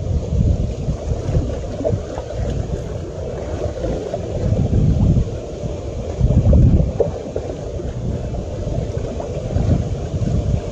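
Wind buffeting the microphone: a low rumble that rises and falls in gusts, swelling strongest about five and six and a half seconds in.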